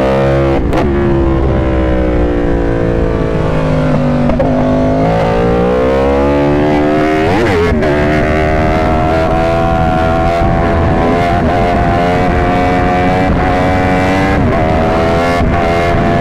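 Yamaha R1 crossplane inline-four with an Austin Racing exhaust at speed on track. The engine pitch rises and falls through the shifts, with a quick blip about seven and a half seconds in, then holds high and climbs slowly.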